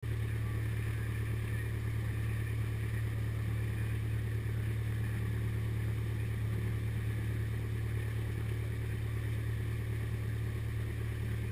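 Cessna 172's piston engine and propeller droning steadily at a constant pitch.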